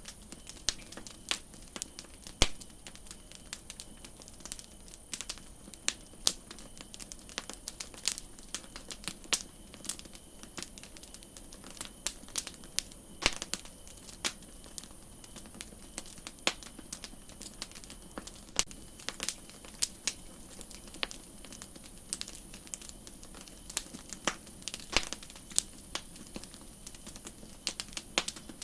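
Wood campfire crackling: irregular sharp pops and snaps, a few much louder than the rest, over a steady soft hiss that grows a little brighter about two-thirds of the way in.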